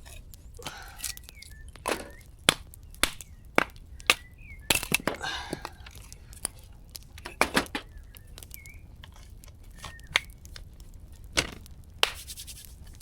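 Wood campfire crackling, with sharp, irregular pops and snaps.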